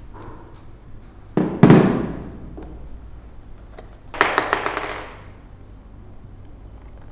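A heavy double thud about one and a half seconds in that rings off briefly, then a rattling, scratchy burst about four seconds in, over a low steady hum.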